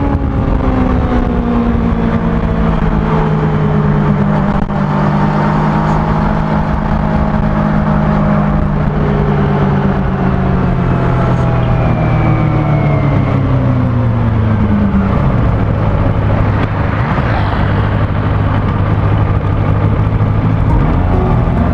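Kawasaki ZX-25R's 250 cc inline-four engine running through its stock exhaust while ridden: the engine note falls slowly for most of the stretch, holds steady for a few seconds, then climbs again near the end.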